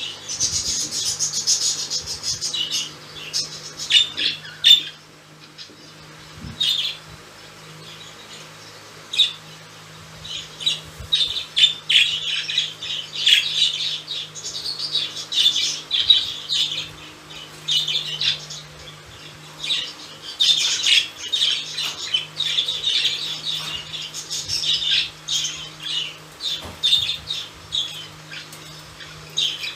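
Budgerigars chattering, with rapid chirps and squawks, falling quiet for a few seconds early on, then chattering almost without a break.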